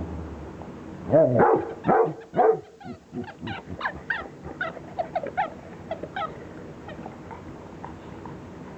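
Dog whining and yipping. It gives three loud calls about a second in, then a string of shorter, fainter high whines that fade out.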